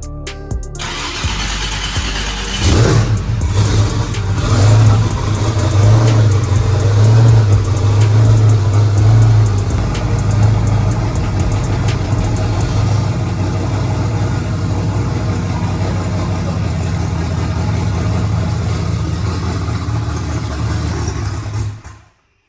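Turbocharged LS-swapped V8 of a drag-racing Mustang starting up about three seconds in and running at a loud, steady idle, a little louder for the first several seconds. The sound cuts off suddenly near the end.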